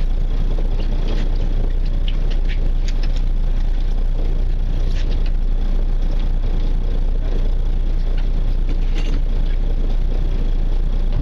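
Boat engine running steadily with a low drone, with light high clicks scattered over it, typical of fishing tackle.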